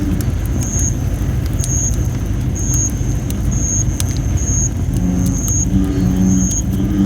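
Campfire of thin, not fully dried red robin (Photinia) wood burning with a low rumble and scattered sharp crackles and pops. A high short tone pulses about once a second. From about five seconds in come low droning calls, typical of bullfrogs.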